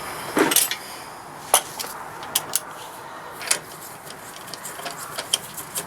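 Scattered light metallic clinks and knocks of hand tools and car parts being handled, about half a dozen sharp clicks in the first four seconds and a few lighter ones near the end.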